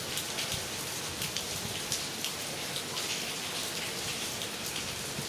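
Heavy rain falling steadily, with many short, sharp drop splashes.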